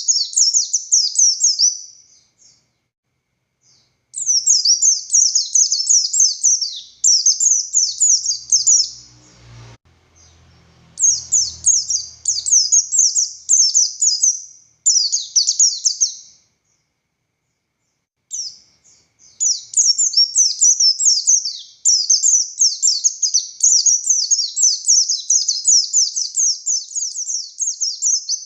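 Pleci buxtoni (a Javan/Sumatran race of oriental white-eye) singing a fast, high twittering song in long unbroken phrases, with two short pauses.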